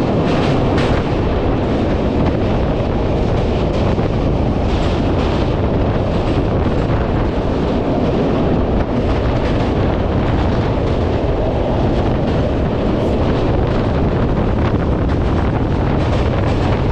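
Train running at speed over a steel truss rail bridge, heard from an open coach doorway: a loud, steady, deep noise of wheels and the bridge structure, mixed with wind buffeting the microphone.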